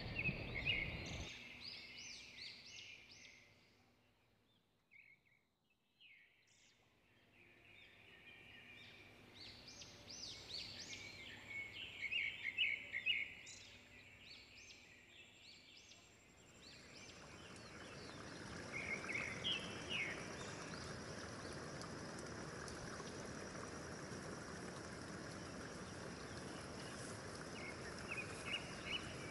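Birds chirping in quick clusters of short, high notes, several times over. From about halfway a steady rushing hiss joins in underneath.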